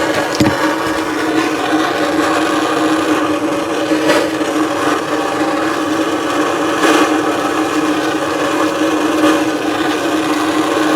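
Handheld gas torch flame burning steadily with an even rush while heating a copper pipe joint for soldering.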